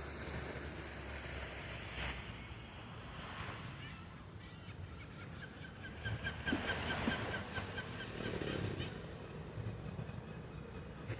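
Sea waves washing on a beach with some wind, and from about five and a half seconds in a seagull gives a quick run of short, repeated calls lasting a couple of seconds.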